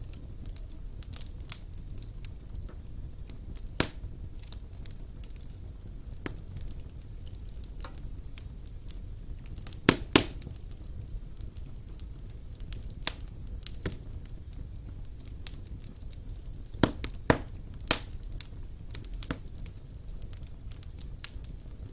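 Wood fire burning in a fireplace: a low steady rumble of flames with irregular sharp crackles and pops of burning logs, the loudest being a few close pairs of snaps about ten seconds in and again near seventeen seconds.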